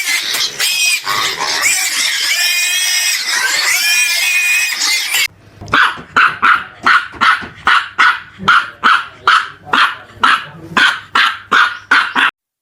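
A dog vocalising: about five seconds of dense, noisy calls, then a rapid run of short barks, about three a second, that stops abruptly shortly before the end.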